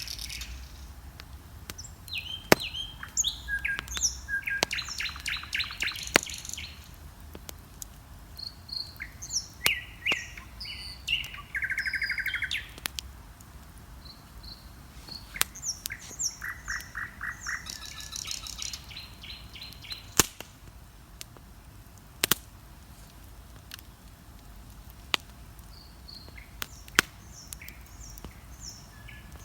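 Songbirds singing at dawn: several short whistled phrases and fast trills, busiest in the first half and thinning later. A wood bonfire crackles underneath with sharp pops every few seconds.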